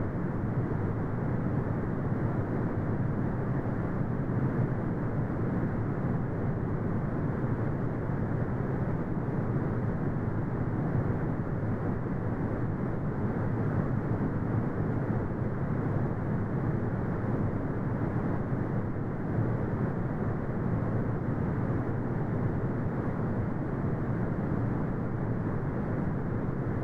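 Brown noise: a steady, deep rumbling hiss with most of its energy in the low end and nothing above the treble, unchanging throughout.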